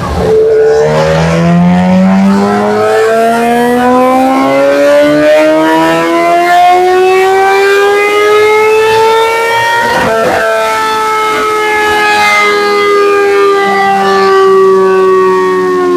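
2013 Kawasaki ZX-10R's inline-four engine with a full Graves exhaust, under load on a dyno pull. The revs climb steadily for about ten seconds, break briefly near the top, then hold high and slowly fall away.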